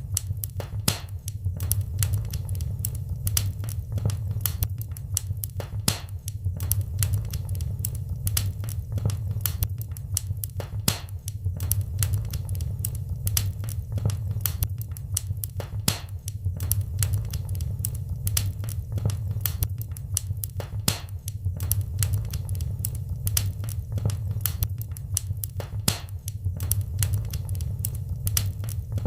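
Wood fire in a fireplace crackling: many sharp pops and snaps at irregular intervals over a steady low rumble of the burning fire.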